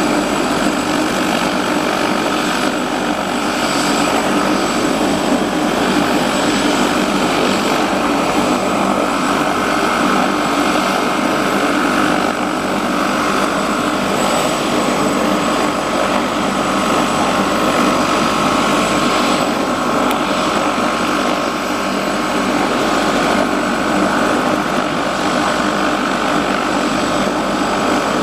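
Helicopter turbine engine running during start-up, a steady loud whine with the rotor turning; the whine shifts up a little about halfway through.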